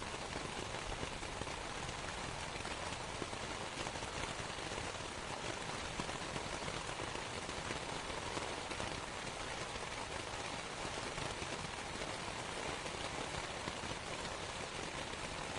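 Steady rain falling on canvas, a dense even hiss of drops with no separate louder events.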